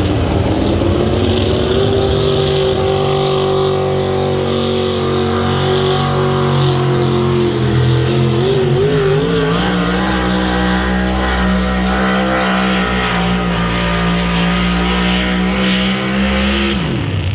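A pulling truck or tractor's high-horsepower engine running hard under load down the pulling track. Its pitch steps up about halfway through, then falls sharply near the end as the engine comes off power at the end of the pull.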